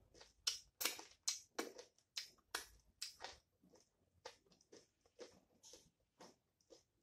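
A person chewing food with the mouth closed: a string of short, irregular mouth clicks and smacks, a few a second, loudest and thickest in the first half and thinning out later.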